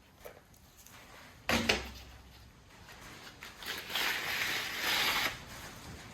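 Objects being handled on a workbench: a sharp knock about one and a half seconds in, followed by a second smaller knock, then a noisy rustle of about a second and a half near the end.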